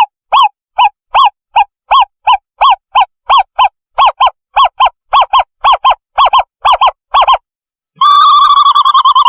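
Recorded owlet call played loud as a lure: short whistled hoots, each rising and falling in pitch, repeated about three times a second. They stop briefly, and a rapid trill starts about eight seconds in.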